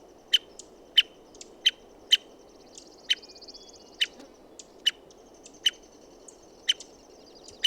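American three-toed woodpecker giving short, sharp calls, about ten of them at uneven intervals of half a second to a second. Behind them runs a fainter high, thin trilling from another bird.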